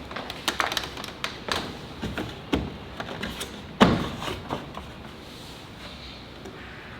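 A run of light taps and knocks, with one heavier thump about four seconds in, over a steady low hum.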